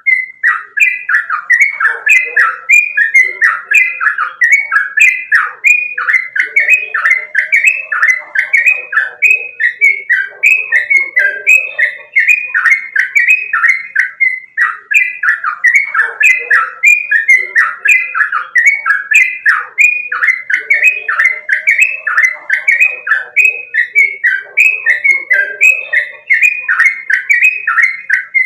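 Yellow-vented bulbul (trucukan) singing loudly and without a break: a fast run of short, sweeping chattering notes, about two a second.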